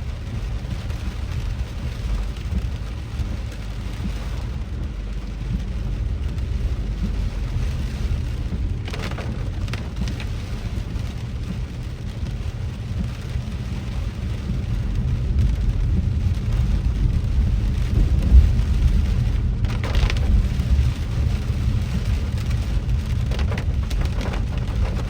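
Rain falling on a car's roof and windshield, heard from inside the cabin over a steady low rumble of the car driving on wet road. A couple of brief louder swishes come through, about a third of the way in and again past the middle.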